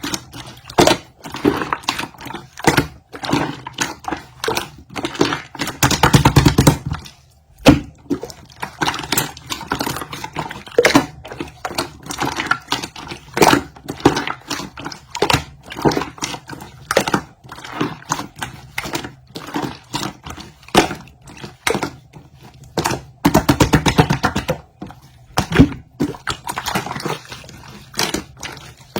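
Orange glitter slime being squished and worked by hand, making irregular sticky clicks and pops, with denser runs of crackling about six seconds in and again about twenty-three seconds in.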